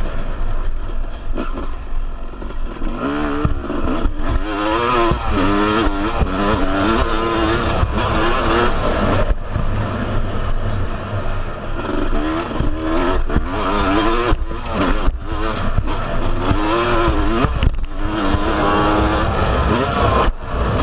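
Yamaha YZ250 single-cylinder two-stroke motocross engine revving hard, its pitch rising and falling again and again as the rider accelerates, shifts and backs off around a dirt track. Short sharp breaks and knocks run through it.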